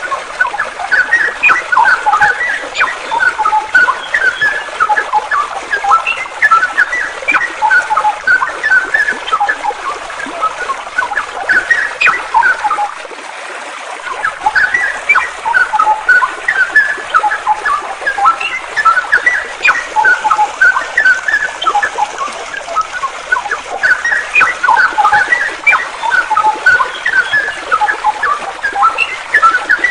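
Small songbirds chirping in quick, dense runs of short high notes over a steady rush of flowing water. The chirping stops for about a second near the middle while the water goes on.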